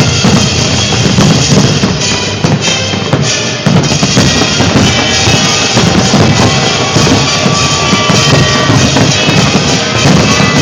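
Fireworks bursting in quick, overlapping succession, a dense run of deep booms, mixed with music.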